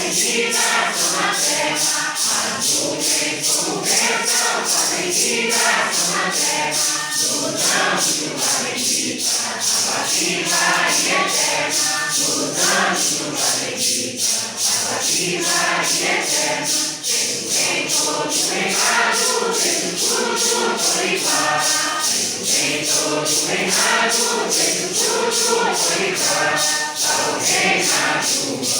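Mixed congregation singing a Santo Daime hymn in unison, with maracas shaken in a steady beat of about two to three strokes a second.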